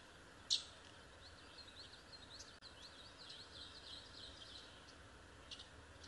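Faint birdsong over steady background noise: a sharp high call about half a second in, then a run of quick high chirps, and another sharp call near the end.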